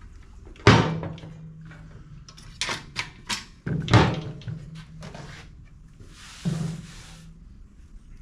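Metal clanks and clicks of tools and parts being handled during work on a push mower's engine: two sharp loud knocks, about a second in and about four seconds in, each leaving a low ring, with lighter clicks between them and a short hiss near the end.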